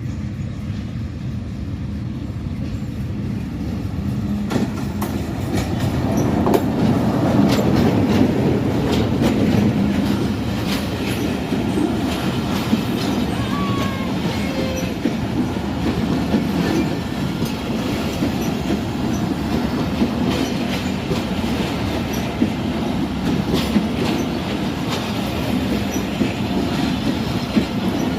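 A passenger train running on the rails, a steady rumble with wheels clacking over the rail joints. It grows louder over the first several seconds, then holds steady.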